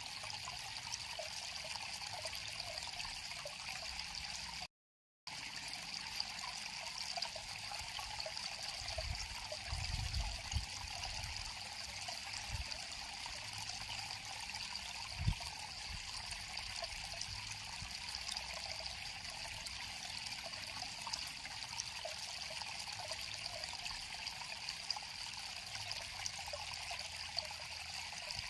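River water flowing and trickling steadily, with a bright, even rush. The sound cuts out completely for about half a second about five seconds in, and a few faint low bumps come around ten and fifteen seconds.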